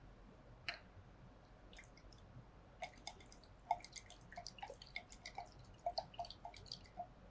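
Faint water-and-glassware sounds: water is transferred into a test tube holding sodium chloride and the salt is dissolved. There is one sharp click about two-thirds of a second in, and from about three seconds in a run of small irregular drips and ticks.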